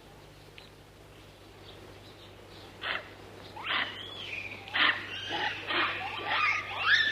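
An animal's high calls that slide up and down in pitch, starting about three seconds in and coming more and more often toward the end.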